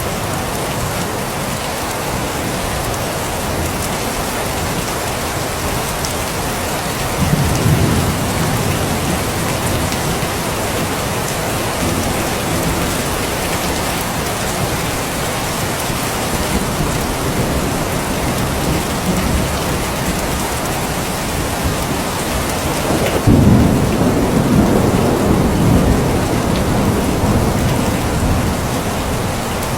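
Steady rain with rolls of thunder: a low rumble about seven seconds in, and a louder, longer one a little past the two-thirds mark.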